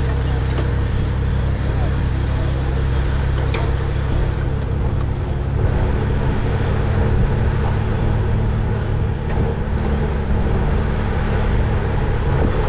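Steady wind rumble on the microphone of a camera riding along on a bicycle at speed, mixed with rolling road noise.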